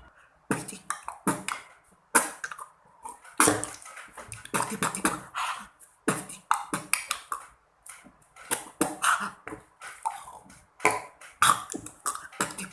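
Beatboxing: mouth-made clicks, snare-like bursts and breathy vocal sounds in a quick, uneven rhythm, starting about half a second in.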